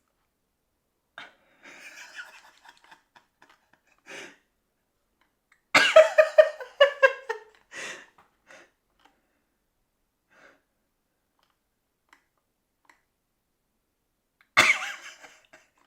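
A person's wordless vocal outbursts: a faint breathy sound early, then a loud burst of pulsed vocal sound falling in pitch about six seconds in, and another sudden loud burst near the end.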